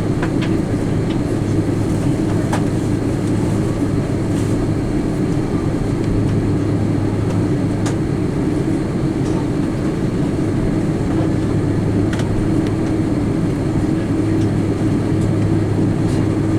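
Cabin noise inside an Airbus A330-300 with GE CF6-80E1 engines rolling on the ground after landing: a steady rumble with a constant engine hum and a few faint clicks.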